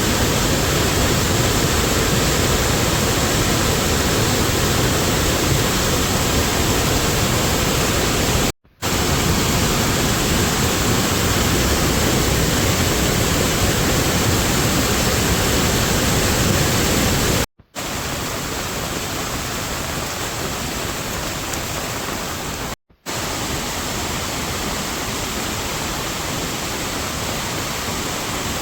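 Heavy rain falling, a loud steady hiss, broken by three brief moments of silence where the sound cuts out and resumes; after the second break it is a little quieter.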